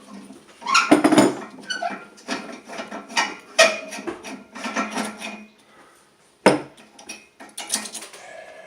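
Metal parts of a Hoffman No. 7 steam radiator valve clinking and knocking against each other and the bench as the valve assembly is taken apart by hand. The knocks are irregular, with a sharp one about six and a half seconds in.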